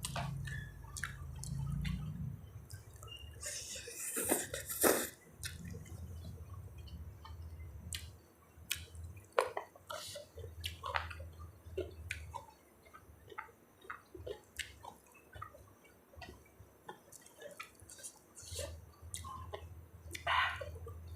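Close-up eating sounds: wet chewing and mouth smacks, many small clicks and squelches, with a short rustle about four seconds in.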